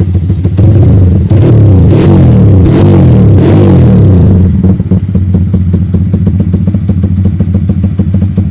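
Yamaha MX King's single-cylinder four-stroke engine through a racing exhaust, idling with a steady pulse, then blipped up in about four quick revs from about half a second in before dropping back to idle near the middle.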